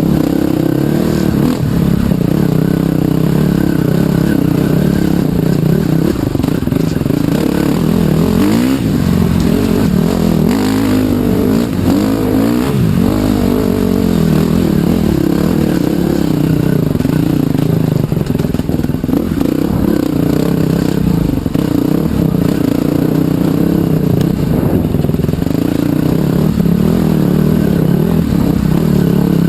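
Trail bike (off-road motorcycle) engine running under way, its pitch rising and falling repeatedly as the throttle is opened and eased off.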